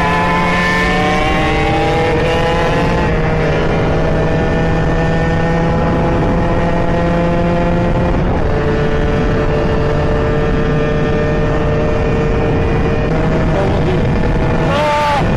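Small two-stroke dirt-bike engines running hard on the move, their buzzing note slowly rising and falling with the throttle, under heavy wind rumble on the microphone. Near the end the note dips briefly and swoops back up.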